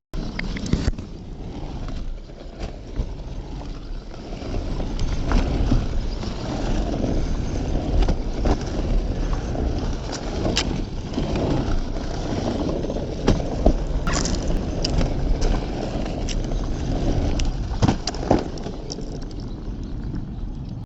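Surfskate wheels rolling over pavement in a steady rough rumble, with scattered clicks and knocks from the board and trucks.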